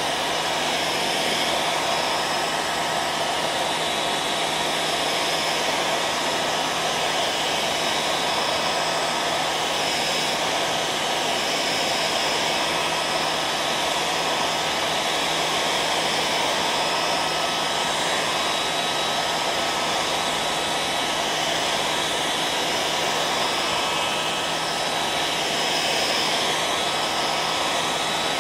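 Hair dryer running steadily: a constant rush of air with a faint steady whine and a low hum underneath, unchanging throughout.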